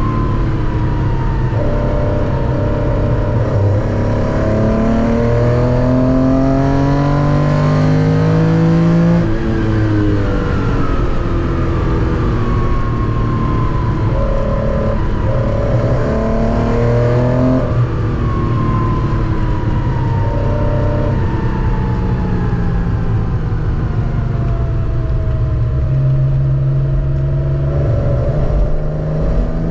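Porsche 914-6 flat-six engine, heard from inside the cabin, pulling up through the gears: its pitch climbs, drops at an upshift about 9 seconds in, climbs again and drops at a second upshift about 18 seconds in. It then settles into a steady cruise with slowly falling pitch, and picks up again near the end.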